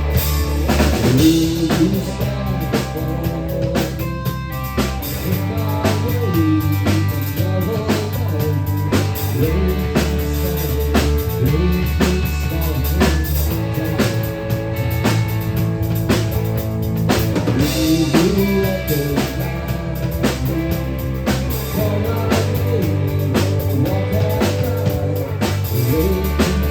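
A rock song playing, with a steady drum-kit beat, bass and guitar, and a voice singing over them.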